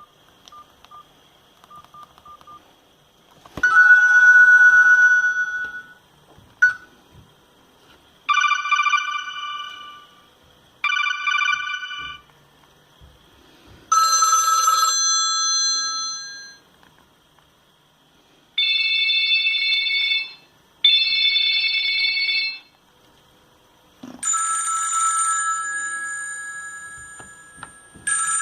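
NGM Raptor mobile phone playing a series of short electronic ringtones through its speaker, about seven in all, some back to back in pairs, with short pauses between them. A few faint beeps come before the first tone.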